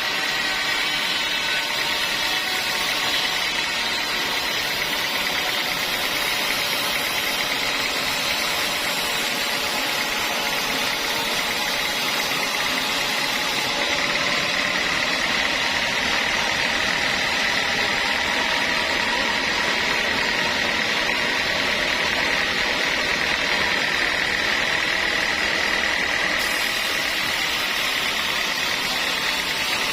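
Sawmill saw running steadily as it cuts through a large log, a dense mechanical noise with a steady high whine that grows stronger in the second half.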